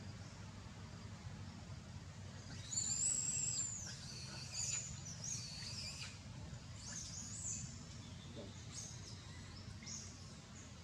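Bird calls: several bouts of high-pitched chirps and whistles, the loudest about three seconds in, over a steady low rumble of background noise.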